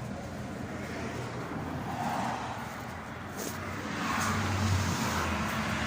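Motor vehicle engine running with a steady low hum and road noise.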